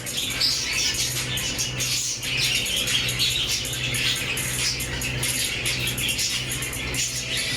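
A flock of aviary parrots (budgerigars and ring-necked parakeets) chattering continuously, with many short calls overlapping, over a steady low hum.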